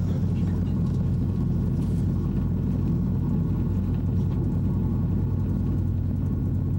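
First-generation ICE (ICE 1) high-speed train running: a steady low rumble with a constant low hum, as heard on board.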